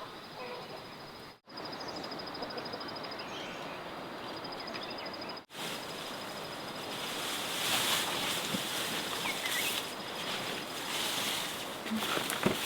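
Outdoor rural ambience: a steady hiss with a high, rapidly pulsing chirp. It cuts out briefly twice, then grows louder and busier from about halfway, with scattered clicks near the end.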